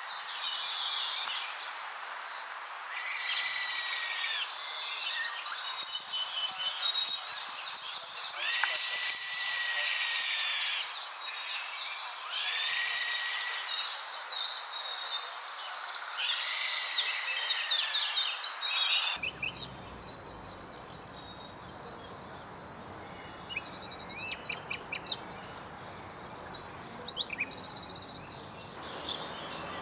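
Bird calls: a string of drawn-out calls, each about one to two seconds long, five of them in the first two-thirds. Then the background changes suddenly to a low rumble, with only a few short chirps near the end.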